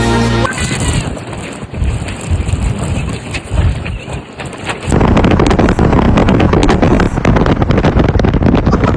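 Strong wind buffeting the microphone, a rumbling roar that gets much louder about five seconds in.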